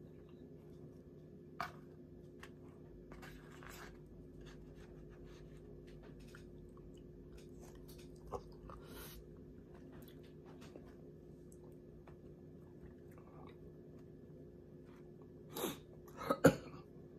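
A person chewing and biting food, fries and barbecue turkey tips, with small mouth clicks over a steady low hum. Near the end there are a few louder sharp clatters as the plastic fork digs into the foam takeout container.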